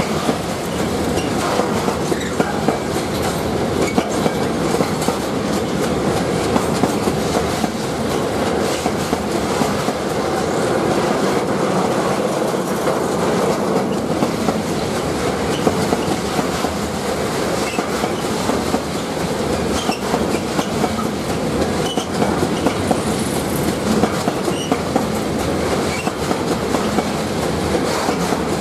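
Long freight train of tank wagons rolling past, its steel wheels clicking steadily over the rail joints.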